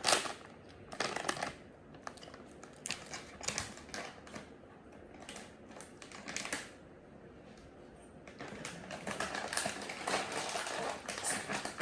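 Toy packaging being torn and handled open: irregular sharp clicks and crinkles, turning into a denser run of crackling and rustling for the last few seconds.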